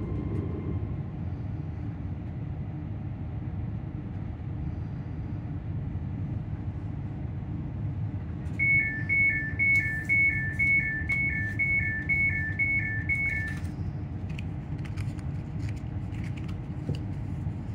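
Inside a ScotRail Class 385 electric multiple unit: a steady low rumble from the train, with a faint motor whine fading out at the start. About halfway through, a high two-tone beep alternates rapidly between two pitches for about five seconds, the door warning as the doors are released at the platform. A few light clicks follow it.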